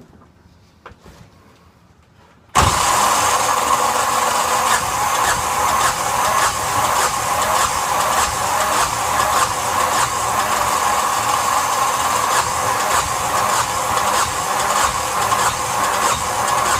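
Yanmar SB12 single-cylinder marine diesel turning over in a start attempt after its fuel system was bled of air. The engine sound comes in abruptly about two and a half seconds in and goes on loud and steady, with a fast even beat.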